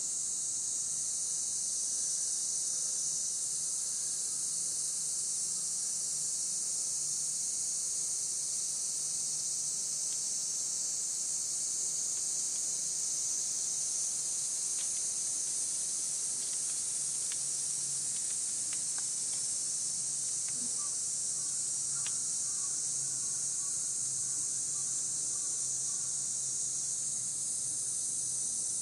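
A steady, high-pitched insect chorus, with a few faint ticks and soft chirps in the second half.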